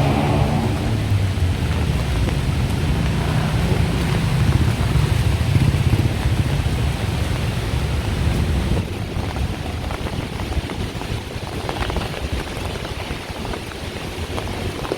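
Traffic on a wet city road: engines rumbling low and tyres hissing on wet tarmac, with light rain falling. The rumble is heavy for the first nine seconds or so, then eases.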